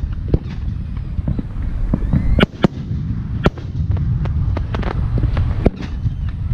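Aerial firework shells bursting in a rapid, irregular barrage of sharp bangs over a continuous low rumble, the loudest bangs about two and a half and three and a half seconds in.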